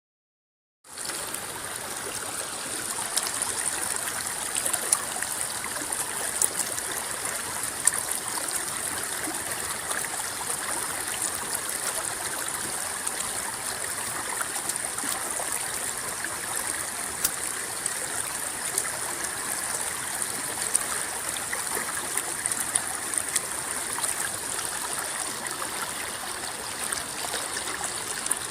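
Steady rippling of river water with small splashes and gurgles, starting suddenly about a second in out of silence.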